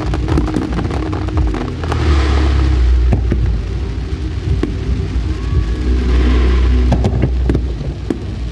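Aerial firework shells bursting one after another: deep rumbling booms mixed with many sharp cracks and crackling.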